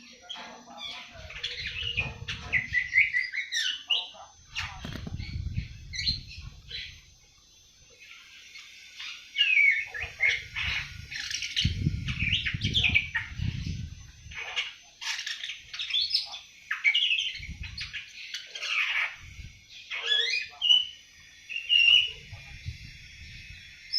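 Young awar-awar bird twittering: rapid, broken runs of high chirps and trills, the early chattering song of a 7-month-old bird. Low muffled bursts come and go beneath the chirping.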